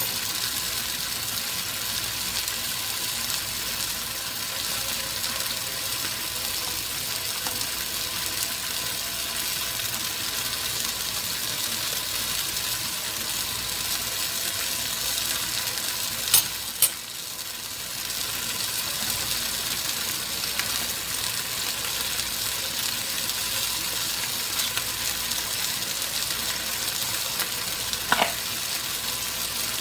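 Okra and vegetables in sauce sizzling steadily in a frying pan on the stove, stirred partway through. Two sharp knocks about halfway through and another near the end.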